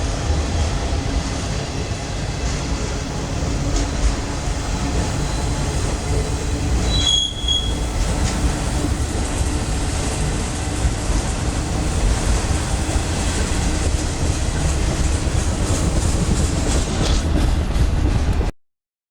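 Freight train cars rolling past close by: a steady rumble of steel wheels on rail, with a short high wheel squeal about seven seconds in. The sound drops out completely for about a second near the end.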